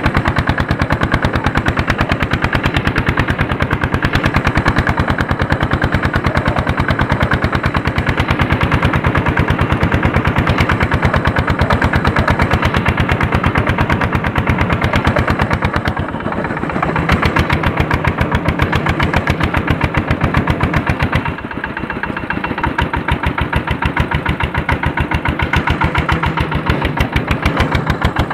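Andoria S-231 (1HC102) single-cylinder diesel engine running steadily while pulling a harrow, its firing strokes a rapid, even knocking. The level dips briefly twice, a little past halfway and again about three-quarters through.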